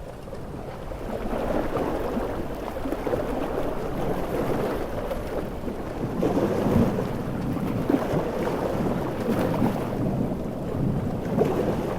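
Large ocean waves breaking in a storm: a dense rushing surf that swells about a second in and again around six seconds in.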